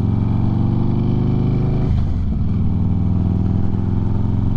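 Harley-Davidson V-twin motorcycle engine running steadily while riding, heard from the saddle, with a brief drop in pitch about two seconds in, as at a gear change or roll-off of the throttle.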